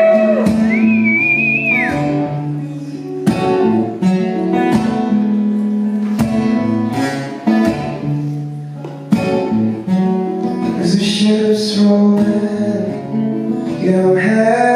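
Live guitar intro of a pop ballad: chords strummed and held with regular strokes, a high wavering note in the first two seconds, and the voice coming in near the end.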